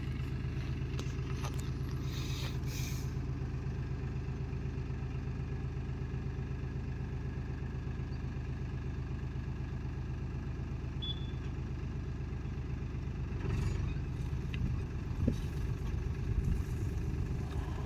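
Diesel engine of farm machinery running steadily at constant speed. A few clunks and knocks come over it in the last few seconds.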